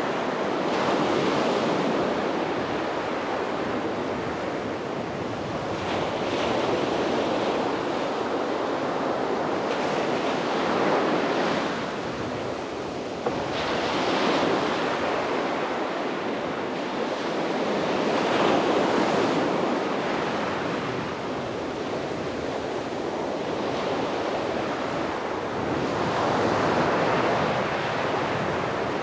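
Sea waves breaking and washing on a beach, in repeated swells every few seconds, with wind on the microphone.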